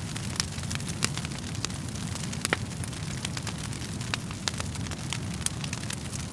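Wood fire crackling: irregular sharp pops and snaps, a few every second, over a steady low rumble of burning logs.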